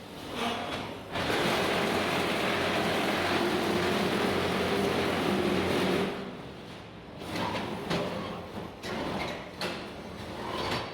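Concrete block making machine running: a loud, steady mechanical noise starts about a second in and cuts off abruptly about five seconds later, followed by scattered knocks and clanks.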